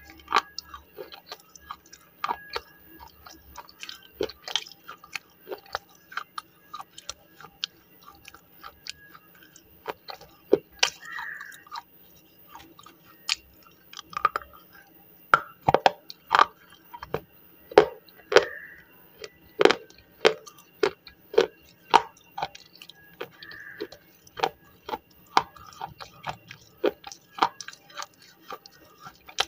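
Slate pencil being chewed and crunched close to the microphone: an irregular run of sharp crunches, at times several a second.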